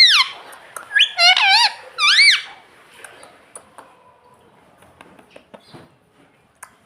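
Indian ringneck parrot giving three short, high-pitched calls that rise and fall in pitch in the first two and a half seconds, then a few faint clicks.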